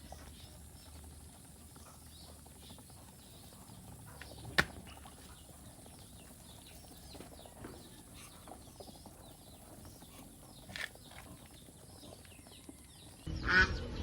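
Quiet farmyard background with faint, scattered chirping fowl calls and a single sharp click about four and a half seconds in. Near the end, loud, repeated honking calls of poultry begin.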